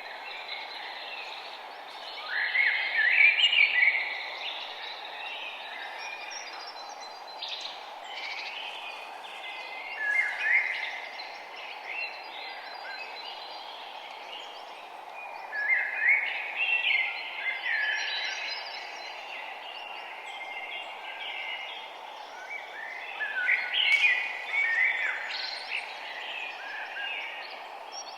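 Outdoor dawn ambience: a songbird sings short, quick phrases of chirping notes every six to eight seconds over a steady background hiss.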